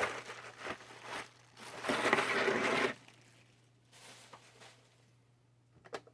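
Packaging rustling and crinkling as kit parts are unpacked and handled, loudest from about two to three seconds in, then quiet apart from a few light clicks near the end.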